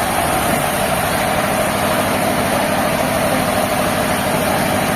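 Heavy sawmill machinery running steadily: a loud, unbroken engine-like drone with a wavering whine in the middle range.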